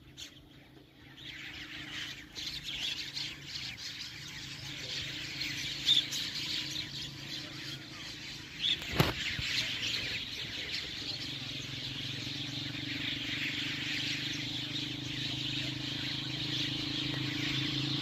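Small birds chirping in a dense, continuous chatter that builds about a second in, with a sharp click near the middle and a steady low hum underneath.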